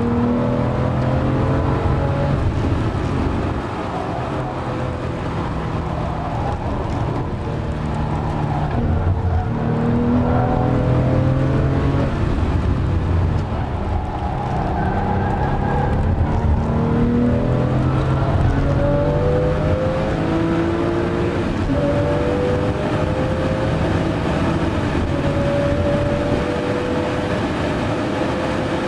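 Porsche 997 Carrera S's 3.8-litre flat-six heard from inside the cabin under hard track driving, with tyre and road rumble underneath. Its pitch repeatedly rises and then drops back as the car accelerates, shifts gear and brakes for corners.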